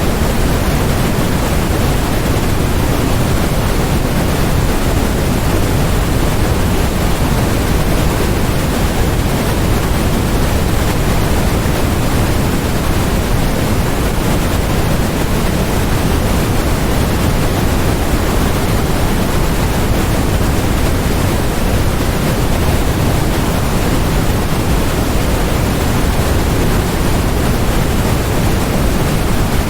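Steady, unbroken synthetic white noise: an even hiss with no events, somewhat heavier in the low end than the high.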